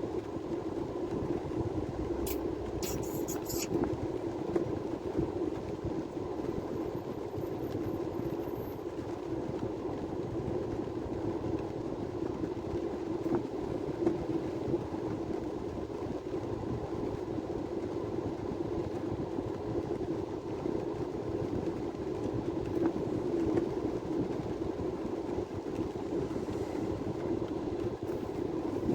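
Steady drone of a vehicle being driven, engine and road noise running evenly, with a few faint high clicks about two to four seconds in.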